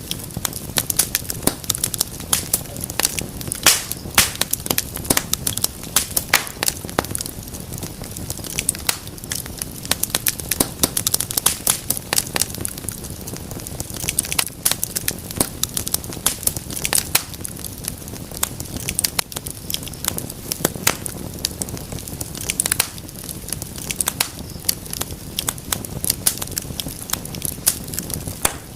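Wood fire crackling steadily in a fireplace: many irregular sharp pops and snaps over a low, even rumble of the flames.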